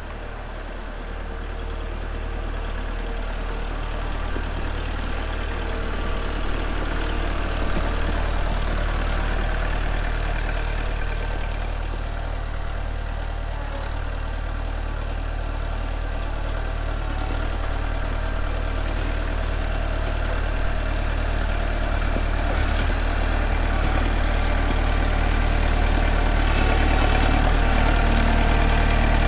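Kubota L4701 compact tractor's four-cylinder diesel engine idling steadily.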